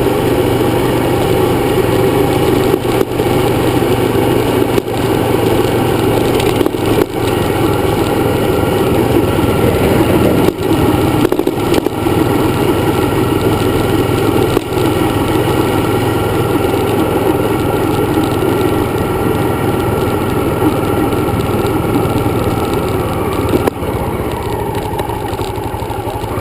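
Dirt bike engine running steadily on the move, with a few short dips in sound.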